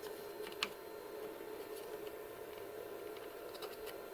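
A few faint plastic clicks and ticks as links of a plastic cable drag chain are pried apart, one sharper click about half a second in and several small ticks near the end, over a steady low hum.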